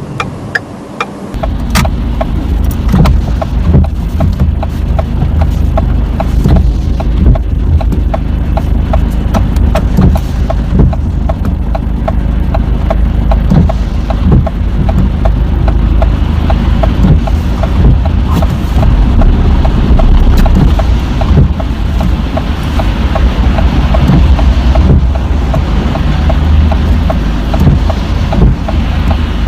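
Car cabin noise: deep engine and road rumble that swells about a second in as the car pulls away, with a rapid, steady ticking running through it.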